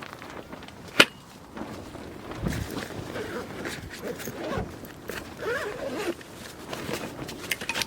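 Hands working with tent gear: a sharp click about a second in, then fabric rustling and zip-like scraping.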